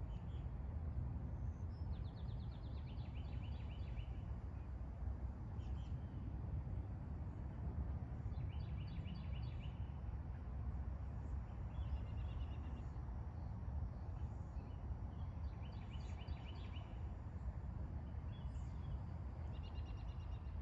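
A songbird singing a short song of fast repeated notes, a higher run dropping to a lower run, four times, with a few fainter chirps between, over a steady low rumble of outdoor background noise.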